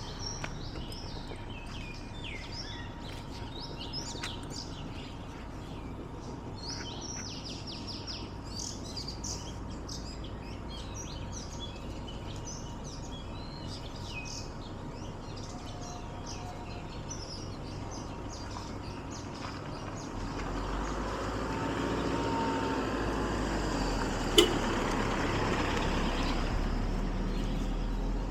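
Several small birds chirping and calling, busiest in the first half. About two-thirds of the way through, a louder steady low rumble and hiss sets in, with one sharp click shortly after.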